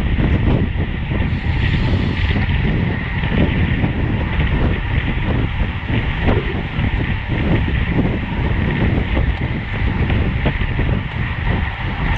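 Steady wind noise buffeting the microphone of a camera on a road bike riding at race speed, over continuous road and tyre noise.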